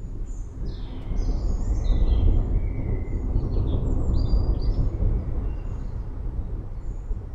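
Several birds chirping and calling in short trills over a low, rolling rumble of distant thunder that swells about a second in and slowly eases off.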